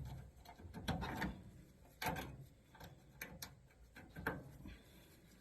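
Irregular clicks, knocks and rustling of hands handling wires and small parts while reconnecting a replaced blower motor's wiring.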